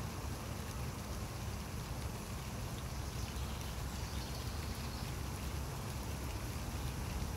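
Steady rain falling, an even hiss with scattered faint drop ticks, over a constant low rumble.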